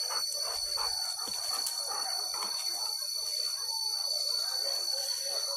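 Boar-hunting dogs barking and yelping in a rapid, irregular series, thinning out toward the end, over a steady high-pitched drone.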